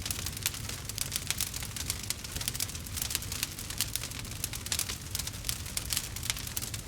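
Campfire crackling: dense, irregular snaps and pops over a low steady rumble.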